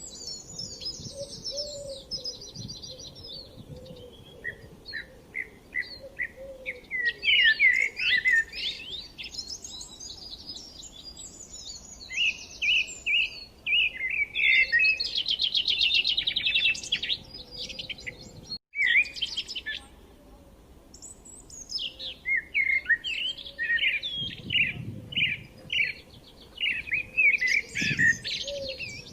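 Several songbirds chirping and singing, with quick trills and runs of short, rapidly repeated notes. The sound cuts out for a split second about two-thirds of the way through.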